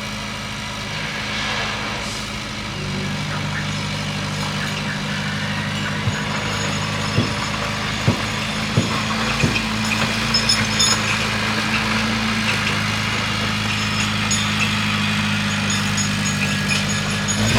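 Bulldozer's diesel engine running steadily, picking up a little about three seconds in, with a few sharp clanks in the middle.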